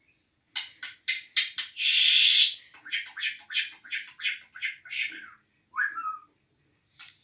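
Bird calling: a quick series of sharp, high chirps, about three a second, with one loud harsh squawk about two seconds in and a short falling call near the end.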